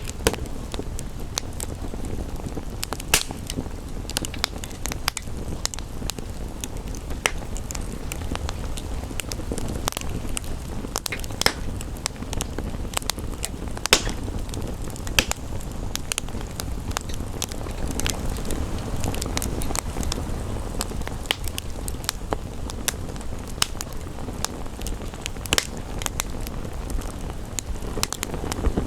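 Wood fire crackling, with frequent sharp pops scattered irregularly over a steady low rumbling hiss.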